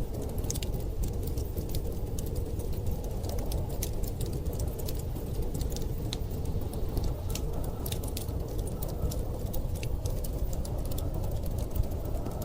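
Wood fire crackling, with frequent sharp irregular pops, over a steady low rush of storm wind.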